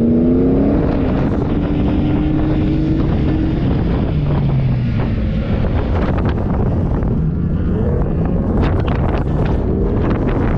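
Off-road 4x4's engine revving up and then easing off while driving, over a heavy rumble, with wind buffeting the microphone.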